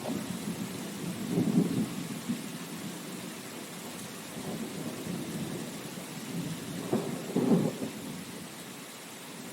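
Steady rain with thunder rumbling, swelling about a second and a half in and again around seven and a half seconds, then easing off.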